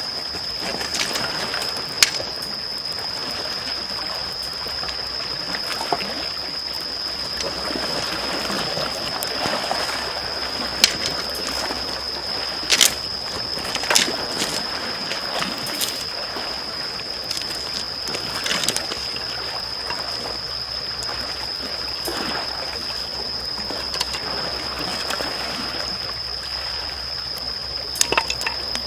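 Gentle small waves lapping on the shore under a crackling wood campfire, with sharp pops now and then. A steady high-pitched tone sits over it throughout.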